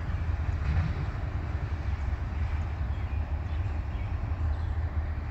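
Freight train cars of a Norfolk Southern trash train rolling away down the track, a steady low rumble of wheels on rail.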